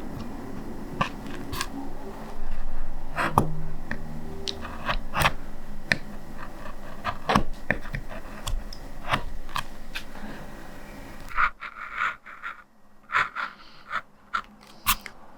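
Linoleum cutter gouging a lino block: repeated scraping strokes with short sharp clicks. The strokes turn quieter and sparser near the end.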